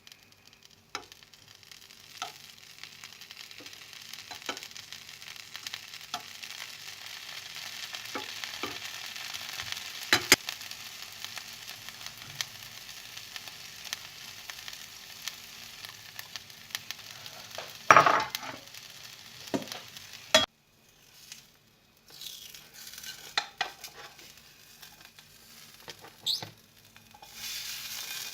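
Food sizzling in a frying pan, with a utensil stirring and knocking against the pan now and then; the loudest knock comes about eighteen seconds in. The sizzle breaks off about twenty seconds in, there are a few more knocks, and the sizzle comes back near the end.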